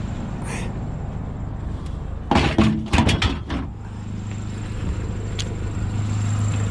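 A 1997 Ford Ranger's engine idling as a steady low hum, broken by a clatter of loud knocks and bangs about two and a half seconds in that lasts about a second, as scrap metal is handled.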